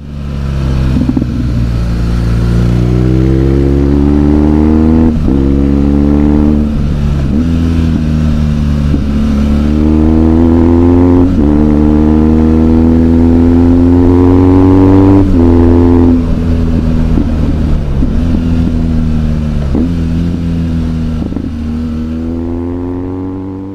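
Motorcycle engine pulling through the gears: its note climbs, drops sharply at each gear change and climbs again, over and over. The sound fades out near the end.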